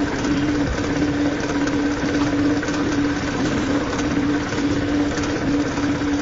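A small motor running steadily in a workshop, with a constant hum and no change in speed.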